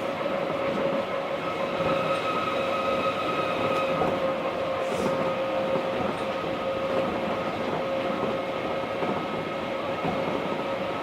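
Osaka Monorail 1000-series car running at steady speed, heard from inside the car: a constant rumble with a steady, unchanging whine of several tones over it.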